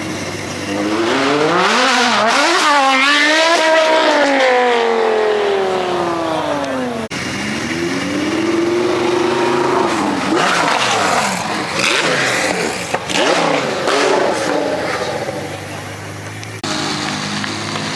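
Sports car engines revving hard and accelerating past one after another, the engine pitch climbing through quick revs and then falling away as each car goes by. The sound breaks off abruptly about seven seconds in and again near the end.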